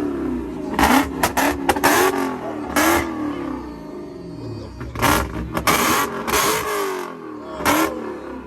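A car engine revved hard over and over, its pitch rising and falling, with sharp cracks from the exhaust between revs.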